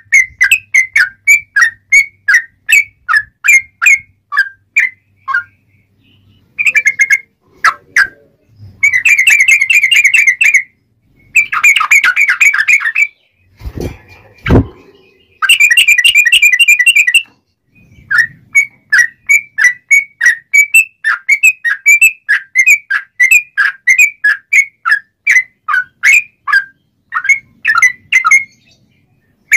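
Yellow-vented bulbul (trucukan) singing: runs of short, clear whistled notes about three a second, broken in the middle by three longer rapid trilled phrases. A couple of brief low thumps come about halfway through.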